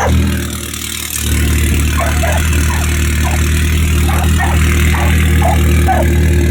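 1.8-litre turbocharged Volkswagen engine idling steadily, with a brief dip in level about a second in.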